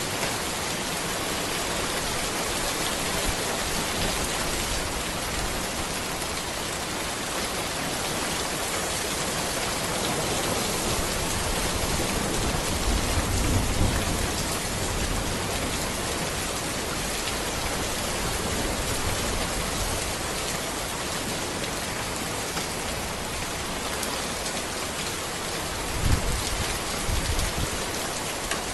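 Steady rain falling on a road, an even hiss of drops. Two brief low rumbles rise out of it, one about halfway through and one near the end.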